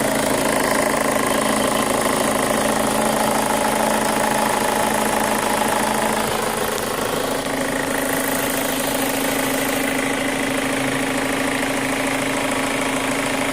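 2005 Chevy Cobalt's 2.2-litre four-cylinder engine idling with a rapid ticking noise, which the owner says sounds like a lifter. Its tone shifts slightly about six seconds in.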